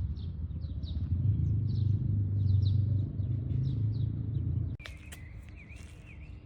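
Small birds chirping rapidly, several chirps a second, over a steady low rumble. Near the end it cuts off abruptly, leaving a few sharp clicks and a faint wavering tone.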